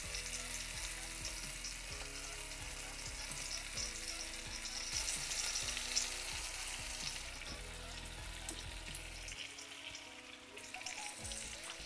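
Marinated chicken pieces sizzling as they fry in hot oil and melted butter in a frying pan. The hiss swells briefly about halfway through as more pieces go in.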